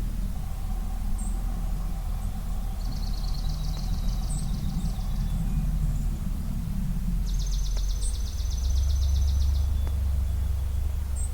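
Dawn birdsong: a songbird sings two rapid, evenly pulsed trills, one about three seconds in and a longer one near the end, while short high chirps come every second or two. Under it runs a steady low rumble that grows louder late on.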